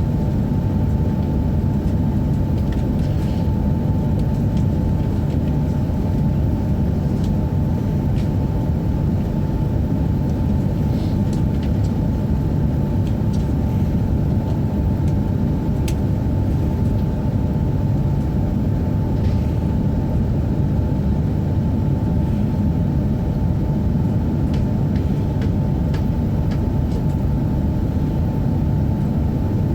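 Steady low rumble inside a stopped Tohoku Shinkansen Hayabusa car, with a faint steady hum just under 1 kHz and a few light ticks.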